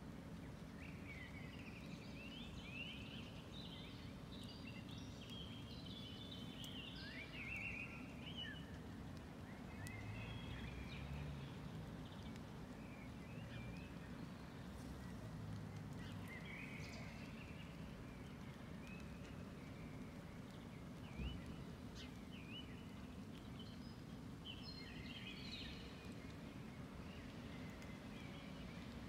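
Small birds chirping in scattered bursts over a steady low outdoor rumble, with a single sharp knock about two-thirds of the way through.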